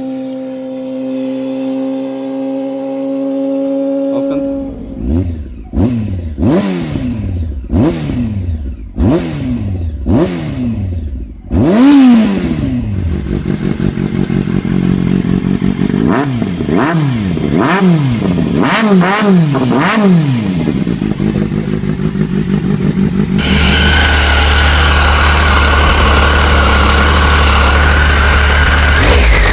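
Motorcycle engines through their exhausts. One holds a steady note, then is revved about seven times, roughly once a second, each rev climbing and falling back. It then idles between several quicker blips, and about 23 seconds in it changes to a different engine idling steadily.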